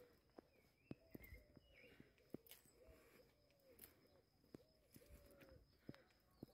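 Faint bird calls: a run of short, low arching notes repeating every half second or so, with a few higher chirps early on. Light footstep clicks sound underneath.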